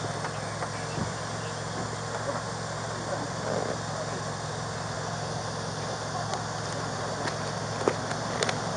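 A car engine idling with a steady low hum, and a couple of small sharp clicks near the end.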